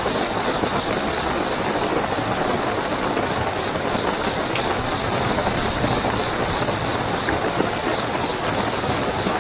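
Steady heavy rainfall, with crickets trilling a continuous high note over it.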